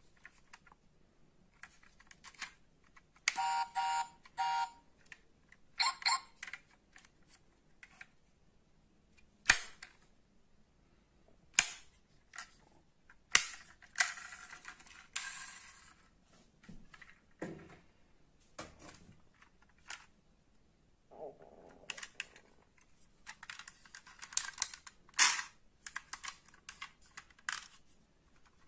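Irregular clicks, taps and short rattles of small die-cast metal model cars being handled and set down, with their parts clicking.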